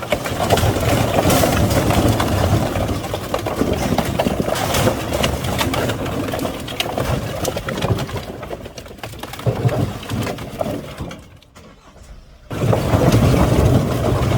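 A truck engine running with a steady low hum, overlaid by dense knocking and clattering. The sound drops away about 11 seconds in and comes back loudly a second and a half later.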